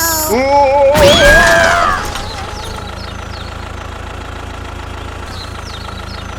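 Steady engine-like running drone from a mini tractor. In the first two seconds a wavering high-pitched squeal rides over it, and a loud thump comes about a second in.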